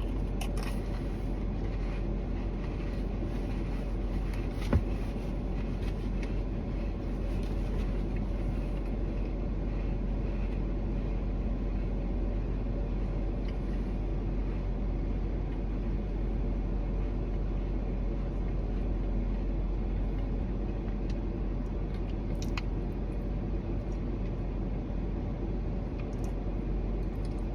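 A person chewing a mouthful of food over a steady low rumble, with a single sharp click about five seconds in.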